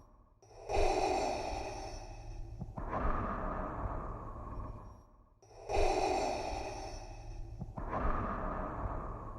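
Darth Vader's mechanical respirator breathing, a hissing, mask-filtered breath in and breath out repeating about every five seconds, two full cycles with a short pause between them.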